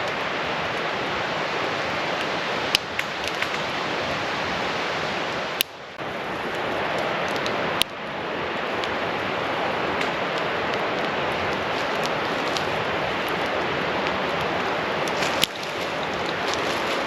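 Steady rushing noise broken by a few sharp pops, the clearest about three, six, eight and fifteen seconds in.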